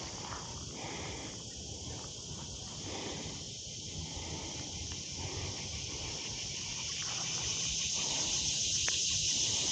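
Steady chorus of insects, a high, even buzzing that grows a little louder near the end, over a low rumble.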